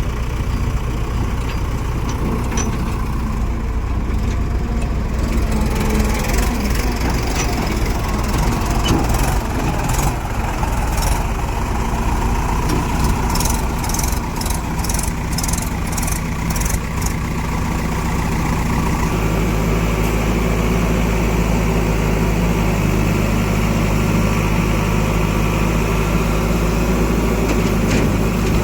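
Heavy diesel engine running steadily, its low note growing stronger about two-thirds of the way through. A string of sharp clicks sounds over it in the middle.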